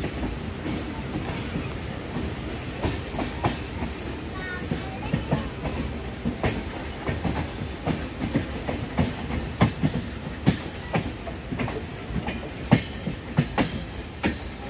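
Express train running, with a steady low rumble of the coach and irregular clicks and knocks of the wheels over rail joints. The clicks come more often from about six seconds in.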